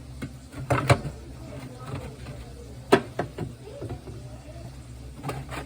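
A few sharp knocks, about a second in, near three seconds and again near the end, over faint voices and a steady low hum.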